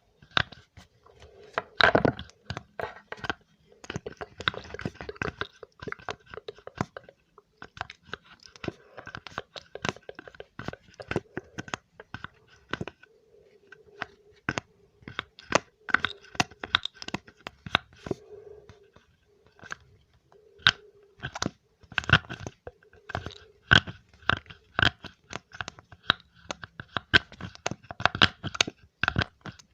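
Close-miked ASMR trigger sounds: a dense, irregular run of crisp clicks and crunches, pausing briefly twice.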